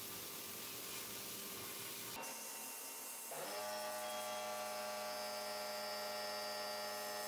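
A hiss, then a small electric motor spins up about three seconds in and runs with a steady whirring hum.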